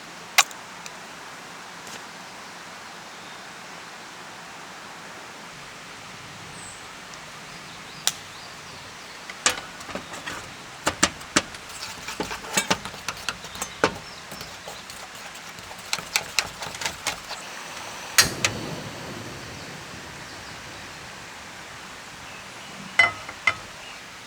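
Steady rush of a running stream, with a run of sharp clicks and knocks through the middle, the loudest near the end of that run, and two more knocks near the end.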